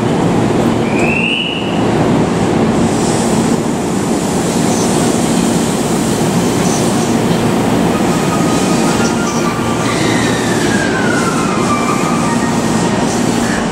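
Steady rail noise on a busy station platform beside a standing JR Nambu Line commuter train. A short high squeal rises about a second in, and another squeal slides down in pitch about ten seconds in.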